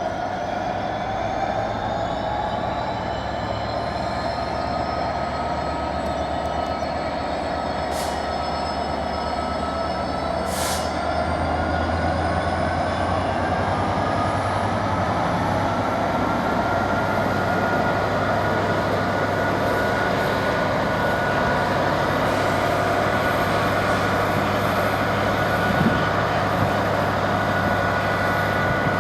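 Two GBRf Class 66 diesel locomotives working double-headed across a crossover, their EMD two-stroke V12 engines running with a steady low drone. High whining tones slowly rise in pitch, and the sound grows a little louder about halfway through.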